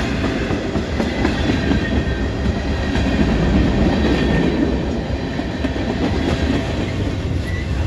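Freight train cars rolling past: a steady, loud rumble of steel wheels on the rails, with clickety-clack.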